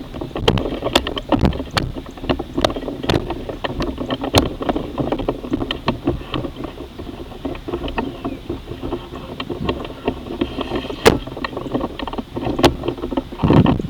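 Handling noise on a camera being carried: irregular knocks, clicks and rubbing, with some wind on the microphone.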